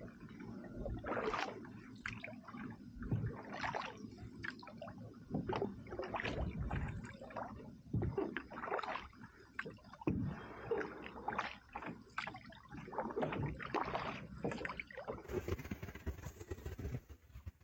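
Water splashing and gurgling around a canoe, with irregular splashes about once a second, as from paddle strokes.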